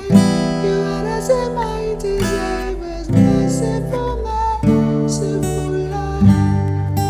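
Acoustic guitar strumming chords in an instrumental passage, a new chord struck every second or so and left to ring.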